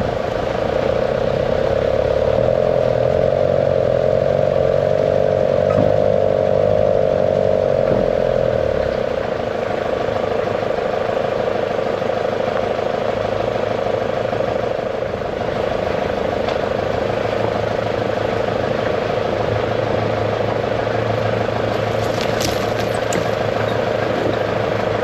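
Vehicle engine and drivetrain running steadily while driving, with a steady whine that is loudest over the first nine seconds.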